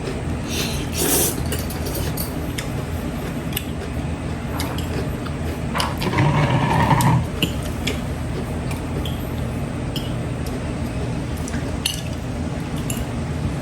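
Cutlery clinking and tapping against a plate as someone eats, in scattered light clicks, over a steady low hum.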